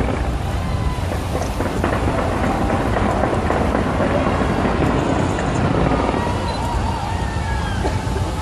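Fireworks going off in a dense, continuous barrage of booms and crackles.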